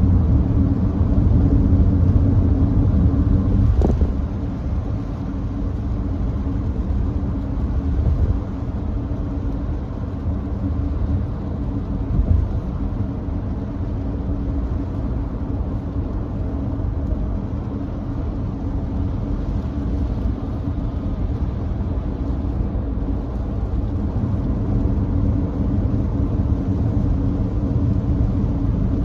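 Steady road and tyre noise of a Nissan Note e-POWER cruising on a wet expressway: a low rumble under an even hiss. A single sharp click comes about four seconds in, after which the noise is slightly quieter.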